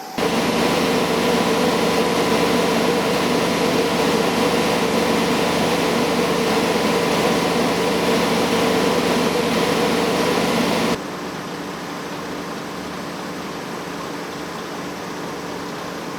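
Steady mechanical running noise aboard a locomotive-hauled passenger train, a hum with a few held tones. It comes in suddenly at the start and drops suddenly to a quieter hum about eleven seconds in.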